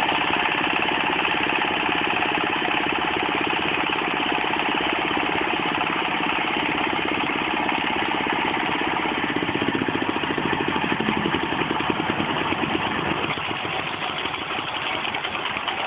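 22-horsepower diesel engine of a pellet mill running steadily with a fast, even firing beat, getting slightly quieter near the end.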